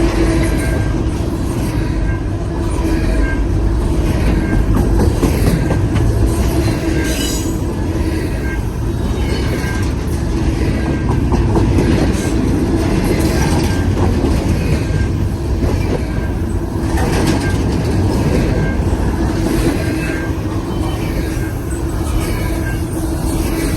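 A long intermodal freight train's cars rolling past steadily, with wheels clicking over the rail and a steady squeal from the wheels.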